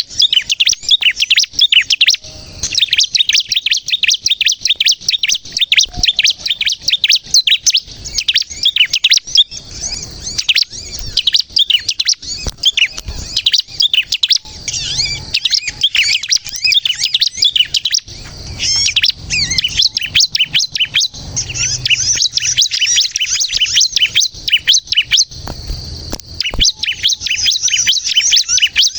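Bar-winged prinia (ciblek kristal) in full, continuous song: rapid high chirping phrases, broken only by a couple of brief pauses.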